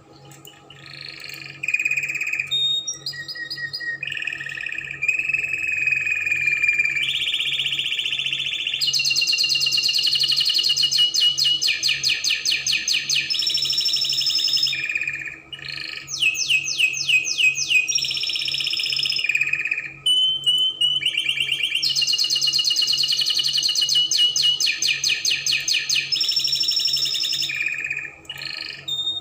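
Spanish Timbrado canary singing two long song phrases of fast rolling trills and held whistled notes, with a short pause midway. A faint steady hum runs underneath.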